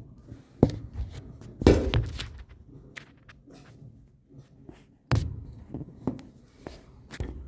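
Irregular knocks, clunks and rustling from objects being handled. The loudest thumps come about two seconds in and again a little after five seconds.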